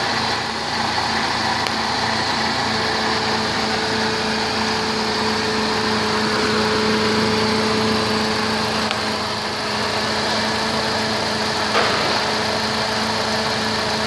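2002 Mercedes-Benz C230 Kompressor's supercharged four-cylinder engine idling steadily, with a short click near the end.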